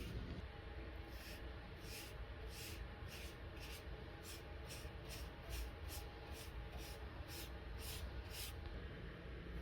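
Paintbrush strokes brushing exterior paint and primer onto a new wooden wheelbarrow handle: soft swishes about two or three times a second, over a low steady hum.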